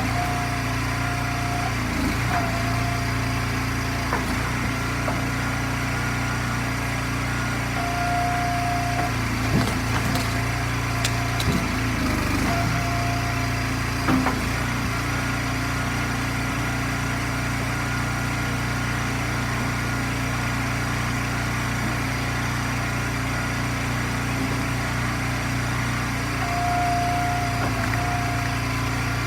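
Gas engine of an Eastonmade hydraulic log splitter running steadily. A higher tone comes and goes several times as the splitter works, and a few short knocks of wood sound in the first half.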